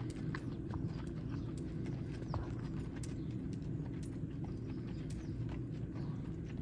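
Hoofbeats of a spotted saddle horse mare shod with keg shoes on all four feet, clip-clopping in a steady run at an easy gait under a rider, over a continuous low rumble.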